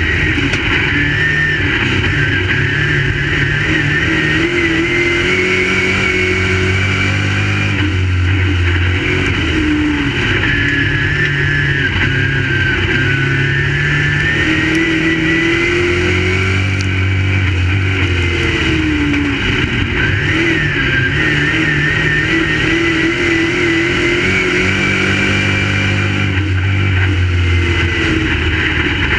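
Crate late model race cars' V8 engines running on the track, several at once, their pitch rising and falling over and over as they accelerate and back off.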